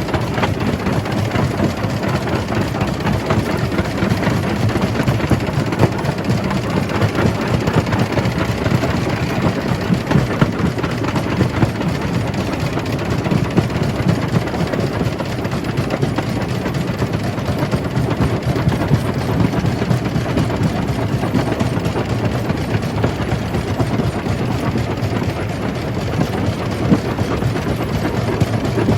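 Jaw crusher running and crushing rock: a steady heavy rumble with dense, continuous clattering of stone, even throughout.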